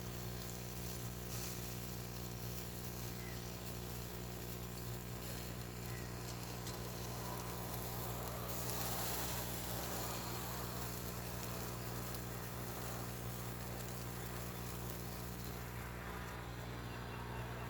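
A steady low buzzing hum with a faint hiss over it, unchanging throughout.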